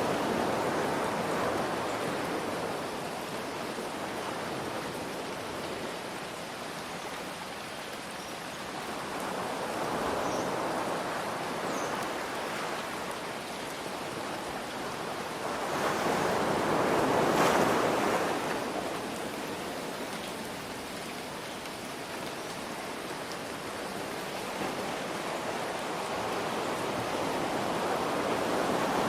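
Ocean waves washing in and drawing back, swelling roughly every seven to ten seconds, with the biggest one a little past the middle, over a steady hiss of gentle rain.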